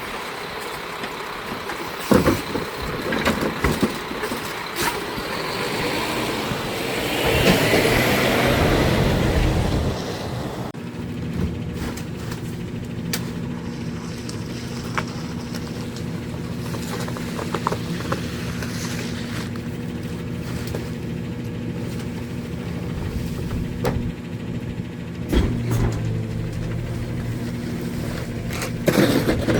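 Garbage truck at work: its diesel engine running with knocks and clanks over it. About ten seconds in the sound changes abruptly to a steadier engine hum with occasional knocks, growing louder near the end.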